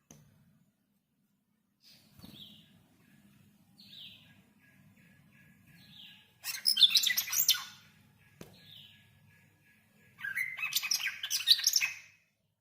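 A small bird chirping: a few short, separate chirps, then two loud bursts of rapid chattering, the first about halfway through and the second near the end.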